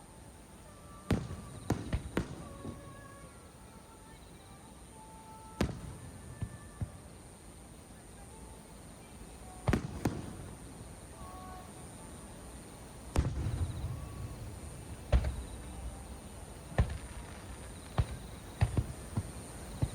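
Aerial fireworks shells bursting: sharp bangs every few seconds, about nine in all, several followed by a low rolling rumble. The bangs come closer together in the second half.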